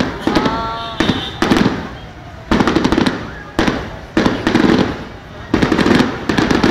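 Fireworks display: aerial shells bursting in repeated volleys, roughly one sharp bang a second, each followed by a dense crackle.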